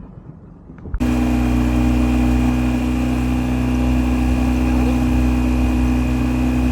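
Outboard motor running steadily, a loud even hum that starts abruptly about a second in.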